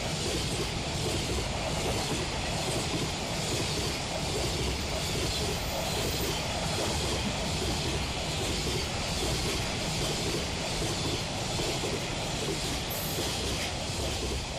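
Container freight train passing close by: a long string of container wagons rolling past with steady wheel-on-rail noise and fast rhythmic clatter.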